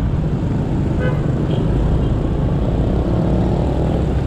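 Motorbike engine running steadily on the move, with road noise and traffic around it. A short faint tone sounds about a second in.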